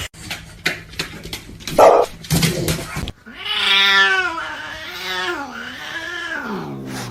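A few sharp knocks, then a cat yowling: one long, drawn-out call of about four seconds whose pitch wavers up and down and slides down at the end.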